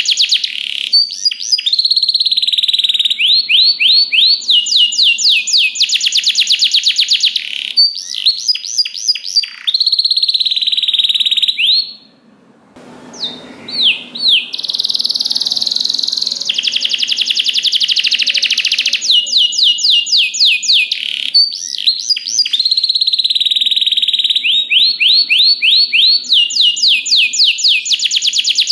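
Domestic canary singing a long song of fast rolling trills and drawn-out held notes, with a brief break about twelve seconds in.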